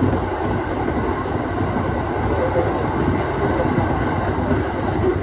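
Aoimori Railway 701-series electric multiple unit running along the line, a steady rumble of wheels on rail.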